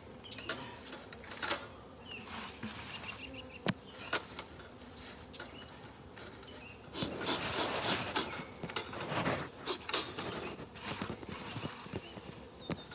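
Honeybees buzzing around a hive, with scattered clicks and knocks of equipment being handled and a louder stretch of rustling noise from about seven seconds in.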